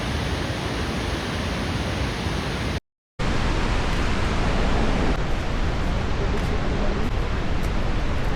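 Steady rushing roar of falling water from a waterfall. About three seconds in it cuts to silence for a split second, then comes back slightly louder.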